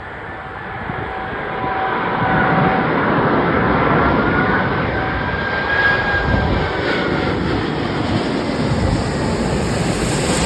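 Airbus A380 airliner's four Rolls-Royce Trent 900 engines passing close by on landing: jet engine noise swelling over the first two seconds and then staying loud, with a high engine whine that slides in pitch.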